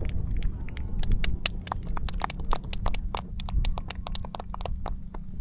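Fireworks crackling: a dense, irregular run of sharp pops over a low rumble, starting about a second in and thinning out near the end.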